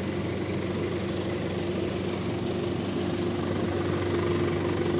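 An engine running steadily at an even speed, a constant low hum with no saw cut or revving.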